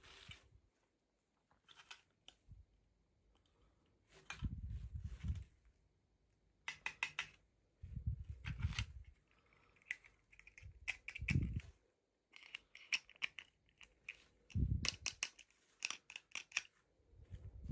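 Scissors snipping at packaging in short clusters of crisp clicks, with dull bumps from the box and packaging being handled in between.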